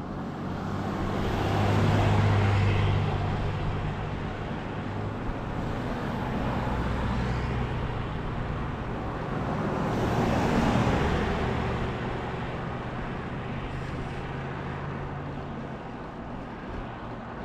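Motor vehicles passing on a paved road: engine and tyre noise swelling up and fading, with one car going by about two seconds in and another around ten seconds.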